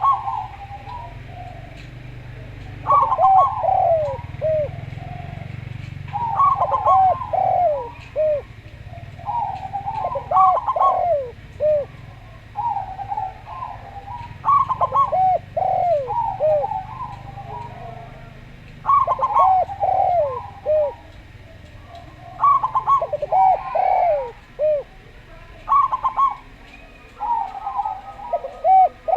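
Zebra dove (perkutut) and derkuku dove cooing in repeated phrases about every three to four seconds. Each phrase is a quick run of soft falling coo notes. A faint low hum runs underneath for the first two-thirds.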